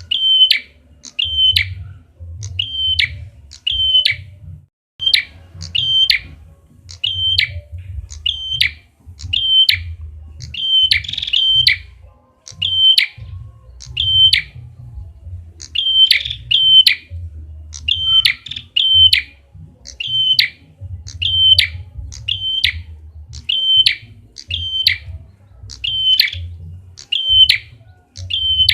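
Lure call of a prenjak kepala merah (red-headed prenjak): a short, sharp chirping note repeated steadily, about one every 0.7 s and often in pairs, with a low hum underneath.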